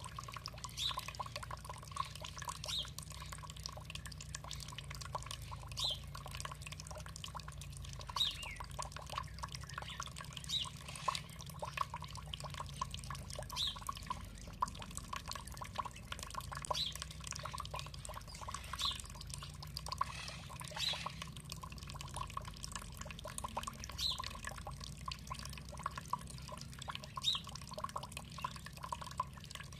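Water dripping and trickling steadily, with short high bird chirps every couple of seconds.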